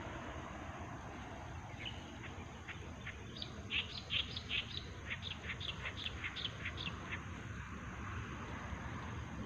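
A bird chirping in a quick run of short, high notes, strongest a few seconds in and stopping about two seconds before the end, over a steady background hiss.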